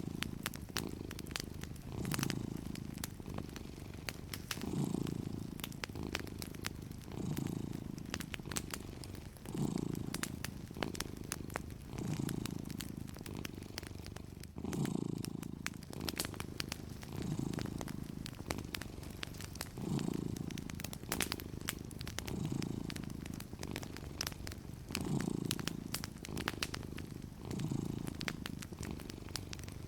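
Domestic cat purring in slow, even swells that rise and fall about every two and a half seconds with its breathing, over the steady small crackles and pops of a wood fire.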